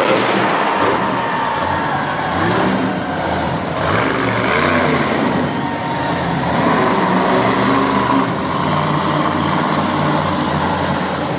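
Monster truck engine running loud, its pitch rising and falling as it is revved, over a steady wash of arena noise.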